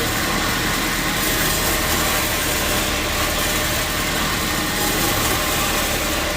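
Sawmill machinery running steadily: a continuous motor drone with a hiss over it.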